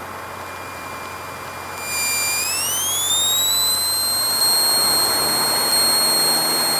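Cessna 152's engine coming up to takeoff power, heard in the cockpit recording as an electrical whine that follows engine speed. The whine holds steady, then rises in pitch about two seconds in as the throttle goes forward, and holds at the higher pitch while the overall noise grows louder.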